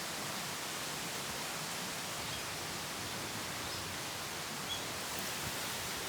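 Steady outdoor ambience in woodland: an even hiss with a few faint, short high chirps.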